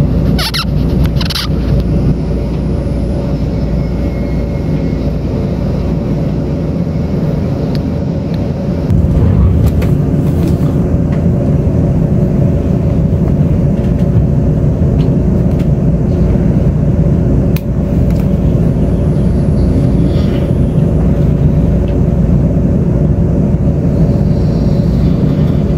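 Taiwan Railways Tze-Chiang express train heard from inside the carriage while running at speed: a steady low rumble with a constant hum, getting louder about nine seconds in.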